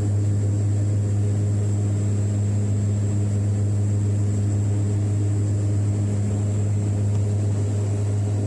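Steady engine drone inside an airliner cabin: a strong low hum with a thin high whine on top, unchanging throughout.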